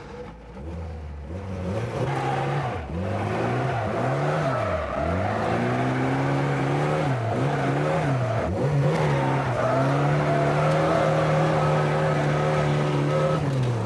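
Lada drift car's engine revving in first gear, its pitch rising and falling several times, then held at steady high revs for several seconds before dropping off at the end, as the studded winter tyres spin and the car slides.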